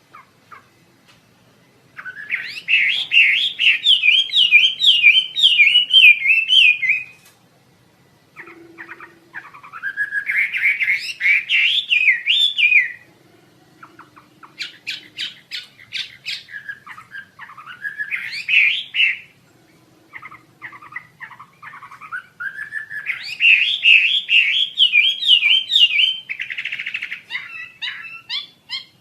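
Wambi Asia songbird singing four long, loud phrases of rapid warbling trills, several of which rise in pitch as they begin, with short pauses between them.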